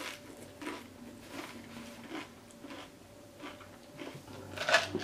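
Close-miked chewing of a mouthful of food, with irregular wet mouth clicks and lip smacks, a louder cluster of smacks near the end.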